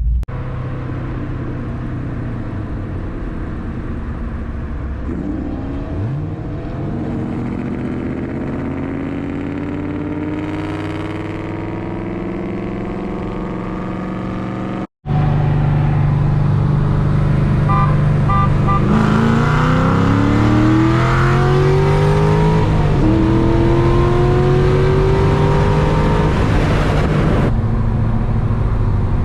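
Cammed LS3 V8 accelerating hard, its pitch climbing steadily. The sound cuts out for a moment about halfway and comes back louder, with the engine note climbing, dropping at a gear change, climbing again, then falling off near the end as the throttle is lifted.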